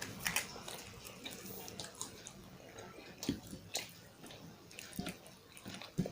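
A person eating close to the microphone: wet chewing and lip smacks, with irregular sharp clicks throughout.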